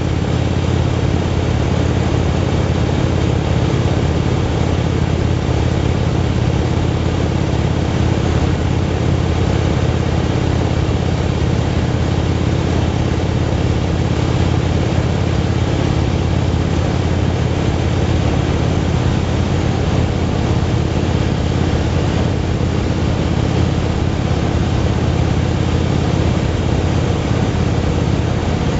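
Motorcycle running at a steady cruise, its engine drone unchanging over a constant rush of noise.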